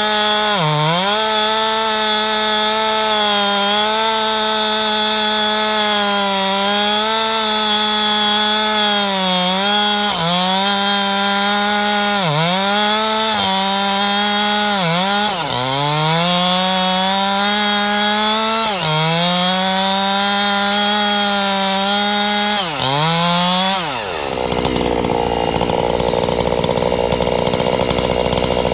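Chainsaw running at full throttle while ripping a log lengthwise, its engine pitch sagging briefly under load every few seconds and recovering. Near the end the engine pitch drops away sharply and the sound turns rougher and lower.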